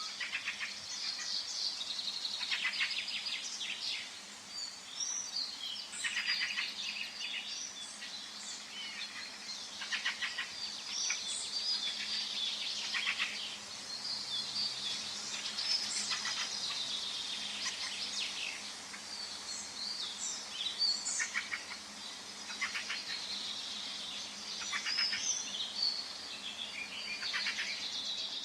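Forest birdsong: several birds singing and calling over one another, with high chirps and rapid trills coming in overlapping phrases, over a soft steady background hiss.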